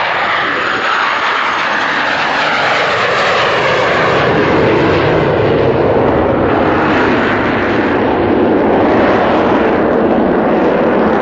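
Fixed-wing aircraft flying past, a loud rushing engine noise whose pitch sinks over the first few seconds and then holds steady.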